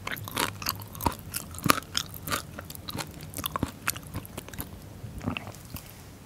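Close-miked chewing of a mouthful of fermented skate with pork and aged kimchi: a quick run of crisp crackles and clicks that thins out and fades near the end.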